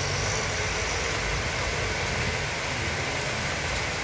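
Heavy rain falling in a steady hiss, with a low rumble of vehicles driving through floodwater on the road.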